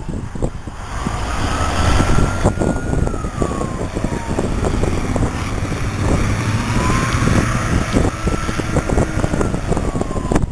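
Fire truck siren on a slow wail, rising, holding and falling twice, over the heavy rumble and rattle of a truck on the road.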